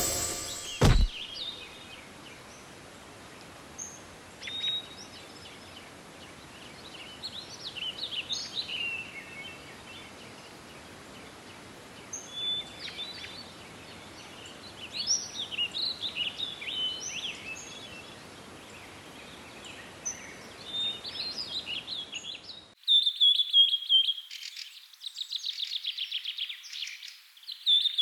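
Countryside birdsong: assorted songbirds chirping and trilling over a faint steady hiss. A sharp knock comes just under a second in, and about 23 s in a louder, rapid bird trill takes over.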